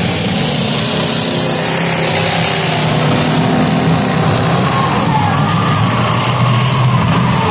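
Demolition derby cars' engines running and revving together, a steady heavy engine noise. A higher wavering whine rises over it in the second half.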